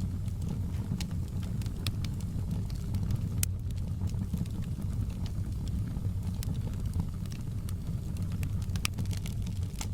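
Wood fire in a fireplace crackling: irregular sharp pops and snaps, several a second at times, over a steady low rumble of burning.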